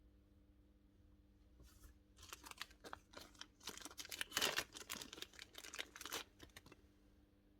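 Plastic packaging rustling and crinkling as it is handled and rummaged through, in a run of about five seconds that is loudest around the middle.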